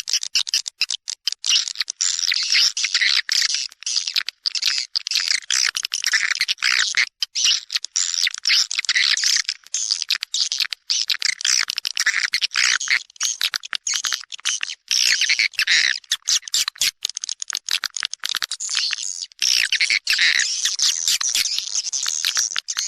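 Edible-nest swiftlets twittering in a dense, rapid, high-pitched chatter with brief gaps: a swiftlet lure call of the kind played to draw the birds into a nesting house.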